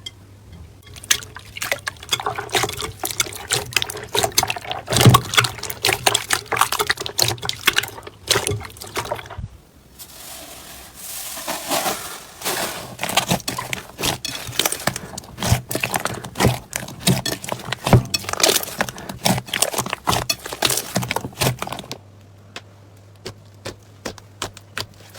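Slime being squeezed and stretched by hand, a dense run of wet clicks and pops. It softens briefly about ten seconds in, and the pops thin out to a few scattered clicks near the end.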